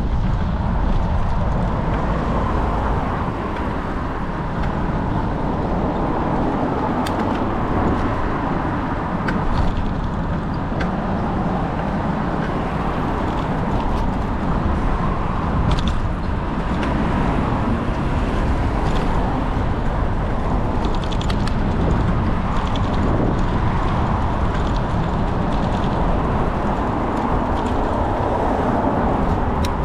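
Steady rushing wind and road noise picked up on the camera's microphone while cycling, with a deep rumble and a few faint clicks.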